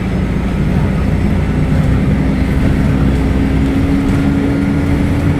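Diesel engine of a Mercedes-Benz O500UDA bus running steadily with a low rumble. About a second and a half in, a thin whine comes in and rises slowly in pitch until near the end.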